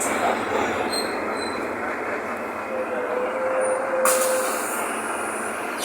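Mercedes-Benz OF-1519 city bus under way, heard from inside: a steady rumble of engine and road noise with body rattle. A faint squeal holds for a couple of seconds in the middle, and a sharp knock comes about four seconds in.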